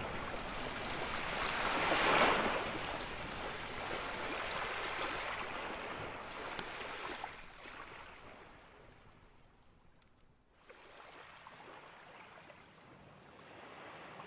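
Ocean waves washing onto a beach: one wave swells and breaks about two seconds in, then the surf recedes to a quiet lull before building again near the end. A few faint campfire crackles are heard through it.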